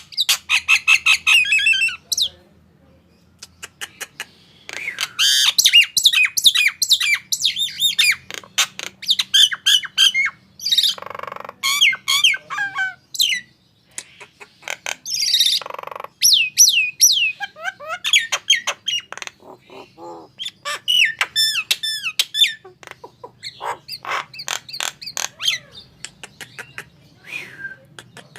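Male jalak nias (Nias myna) calling: bursts of loud squawks, sweeping whistles and quick chattering notes. The calls break off briefly about two to four seconds in and again near fourteen seconds.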